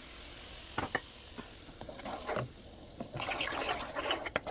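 Cream sauce sloshing in a pan as it is stirred, with a few light clicks of the utensil about a second in and louder liquid movement in the second half.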